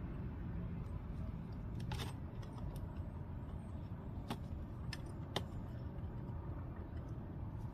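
A few sharp, light clicks of a small metal pick against the oil filter housing cap as old O-rings are prised off, over a steady low background rumble.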